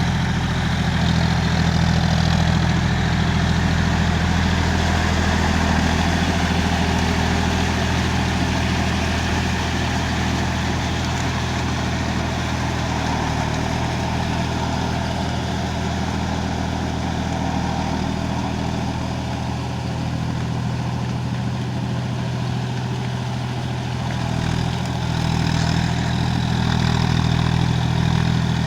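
Tractor's diesel engine running steadily at low revs. It eases slightly about two-thirds of the way through, then picks up again near the end.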